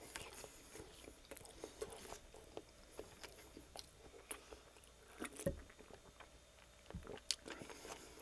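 Close-miked chewing of a coney dog, a hot dog in a soft bun with sauce: faint wet mouth clicks and smacks. Two soft low thumps come in the second half.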